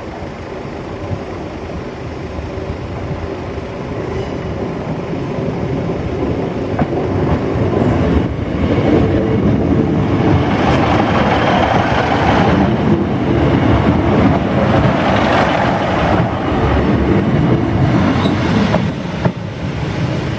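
East Midlands Trains Class 156 diesel multiple unit approaching, crossing the level crossing and pulling into the station. Its diesel engine and wheels on the rails grow louder over the first eight seconds or so, then stay loud as the carriages pass close by, with a series of knocks as the wheels cross rail joints.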